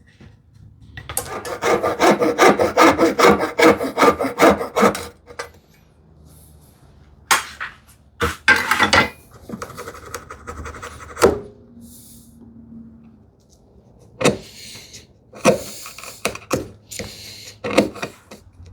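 Hand saw cutting wood in quick, even strokes, about four or five a second, for a few seconds, followed by scattered single scrapes and knocks of wood being handled and worked.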